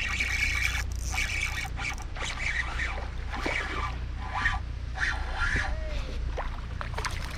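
Water sloshing, splashing and dripping around a kayak in irregular splashes about once a second, with a few light knocks and a steady low rumble underneath.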